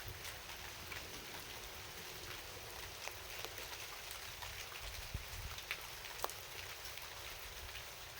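Steady rain falling, with many individual drops ticking through it and a few louder drop hits a little past halfway, over a low rumble.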